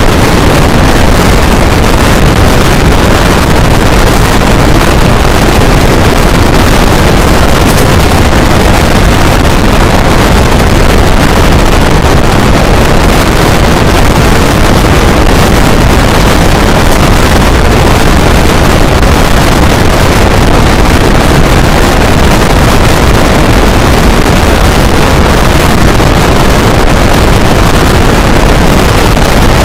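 Loud, steady rush of wind buffeting the microphone from the open door of a fast-moving passenger train, over the rumble of its wheels on the track.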